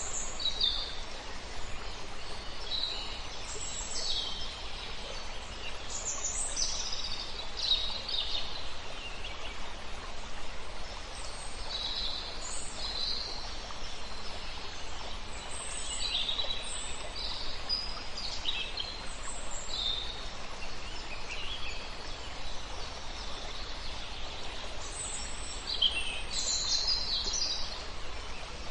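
Several songbirds chirping and trilling in short high phrases, busiest near the end, over a steady rush of river water.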